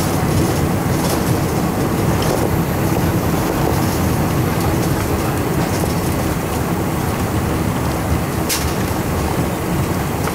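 Cabin noise of a Boeing 747-400 taxiing after landing: a loud, steady rumble of engines and rolling gear, with a few light knocks and rattles, the sharpest about eight seconds in.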